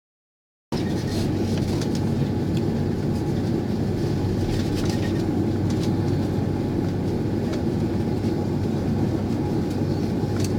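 Airbus A330 jet engines running at low thrust, a steady low rumble that starts just under a second in, with a few faint clicks over it.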